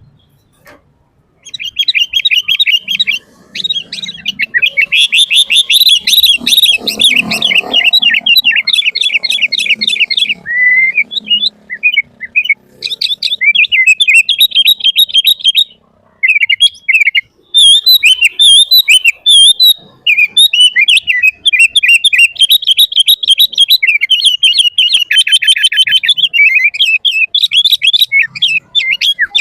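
Sooty-headed bulbul (kutilang) singing energetically in long, fast runs of chirps and whistled notes, beginning about a second and a half in, with a few short pauses.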